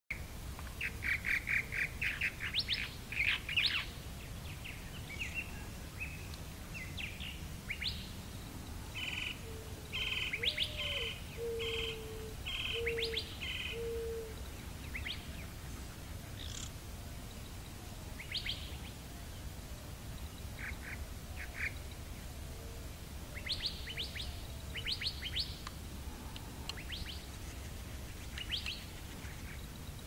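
Birds chirping: bursts of quick, high chirps, loudest in the first few seconds and again around ten seconds in, with a lower series of four or five short notes between about ten and fourteen seconds in, over a steady low rumble.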